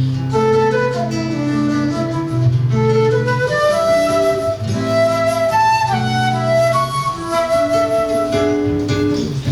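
Flute and seven-string guitar duo playing live, a flute melody of held and moving notes over guitar accompaniment with low bass notes. The piece is in 6/8 time.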